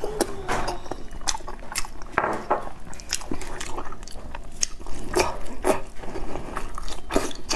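Close-up mouth sounds of eating braised pork belly: biting and wet chewing with many short, sharp lip-smacking clicks at irregular intervals.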